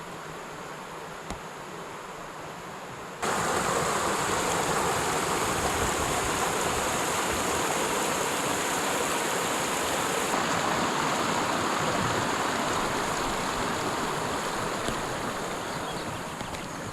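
Quiet steady hiss, then about three seconds in a sudden switch to the loud, steady rush of a mountain creek's flowing water.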